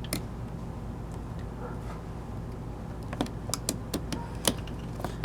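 Sharp small plastic clicks and taps from an electrical connector and its wires being handled and pushed onto a dishwasher part: one click at the start, then a quick run of about eight clicks late on, over a steady low hum.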